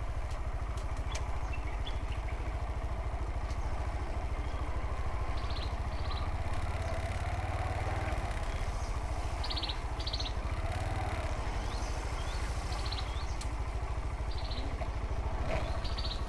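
Motorcycle engine running steadily at cruising speed, heard from the bike as it rides. A few short high chirps come and go over it from about five seconds in.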